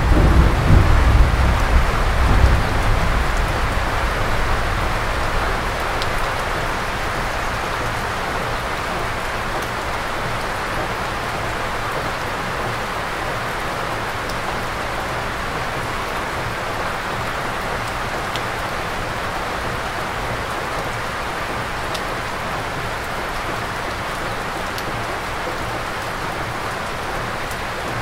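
Steady heavy rain, an even hiss with the odd single drop ticking. A low rumble dies away over the first few seconds.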